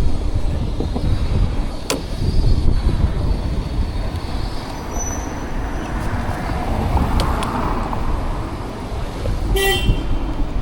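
Wind rumbling on the microphone and street traffic noise while riding a bicycle, with a short vehicle horn toot near the end.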